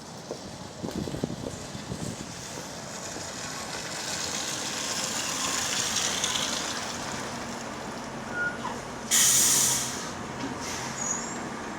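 Go-Ahead London bus SEe83 heard from on board: light rattles, then a hiss and low hum that build and ease off, then a sudden loud burst of compressed-air hiss lasting about a second, about nine seconds in.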